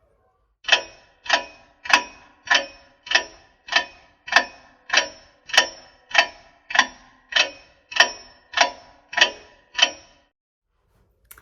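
Ticking-clock sound effect timing the thinking time: about sixteen evenly spaced ringing ticks, a little under two a second, that stop about ten seconds in.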